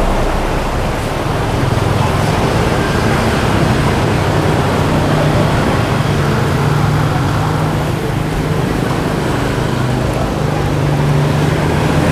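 Steady roadside traffic noise with a low engine hum from passing vehicles.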